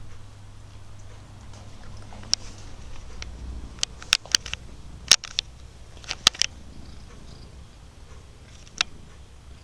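Domestic cat purring loudly in a steady low rumble, set off by valerian, with a scattering of sharp clicks and scratches, most of them in the middle.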